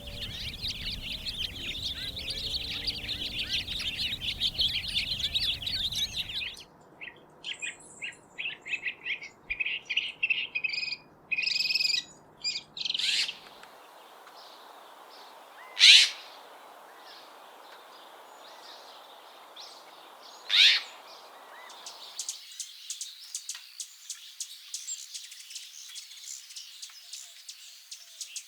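Backyard songbirds chirping and singing in a fast, busy stream of high calls, changing abruptly a few times as the bird sounds shift. About halfway through, two loud, sharp calls ring out a few seconds apart, each falling in pitch.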